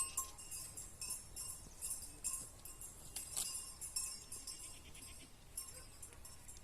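Small bells on goats jingling irregularly as the goats move about, growing sparser and fainter toward the end.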